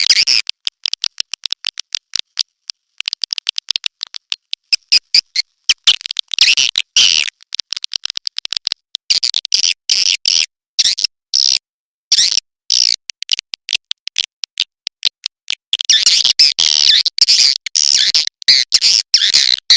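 Edible-nest swiftlet calls, as on the sound tracks played to draw swiftlets into nesting houses: rapid high chirps and clicks in dense runs. The runs thin out with gaps in the middle and crowd together again about three-quarters of the way through.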